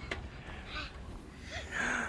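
Low background rumble with a child's short breathy gasp near the end.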